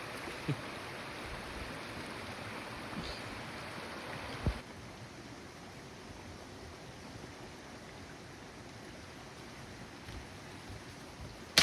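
Steady rushing background noise, like a stream or wind outdoors, with a soft knock about half a second in and another about four and a half seconds in, where the rushing drops a little quieter.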